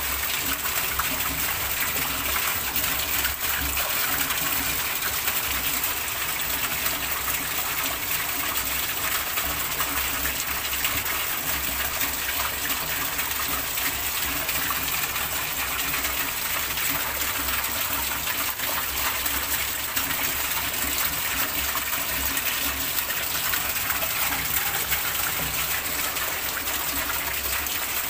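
Heavy rain pelting steadily onto the surface of a shallow tiled pond.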